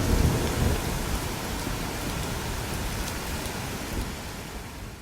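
Steady rain with a low rumble underneath, fading out gradually.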